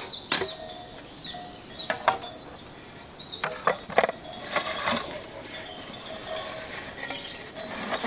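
Small birds chirping over and over, with a few sharp clinks of glass jars being set on a metal tray, the loudest about four seconds in.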